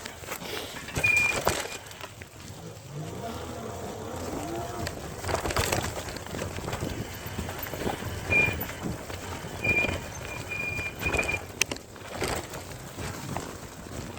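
E-bike jolting over a rough forest track: irregular knocks and rattles, with a few short, high squeaks.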